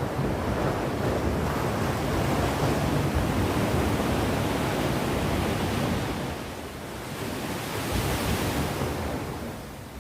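Sea waves breaking and washing on the shore, a continuous surf that swells and eases, dipping briefly about two-thirds of the way through, with some wind on the microphone.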